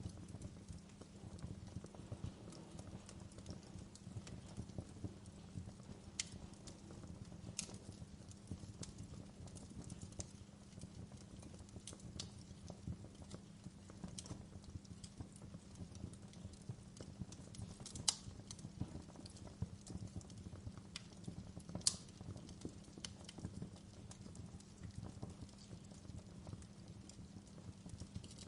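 Wood fire crackling, with a steady low rumble of flames and constant irregular small pops, broken by a few sharper, louder cracks.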